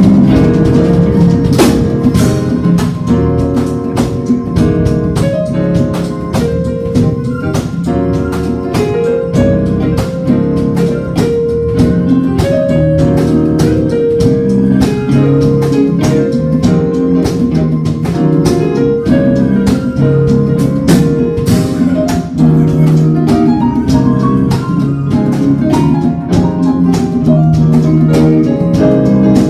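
A band playing a song: guitar over a drum kit keeping a steady beat.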